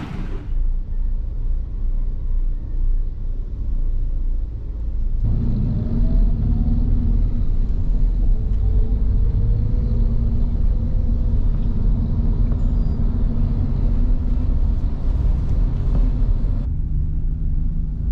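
Motor vehicle running with a low rumble and a steady engine hum. The sound jumps louder about five seconds in and shifts again near the end.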